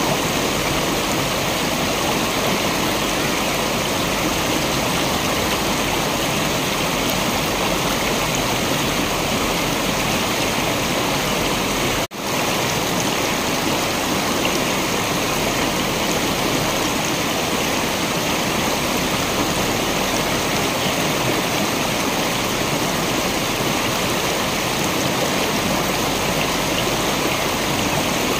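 Waterfall: a steady, dense rush of falling water. Near the middle it cuts out for an instant and comes straight back.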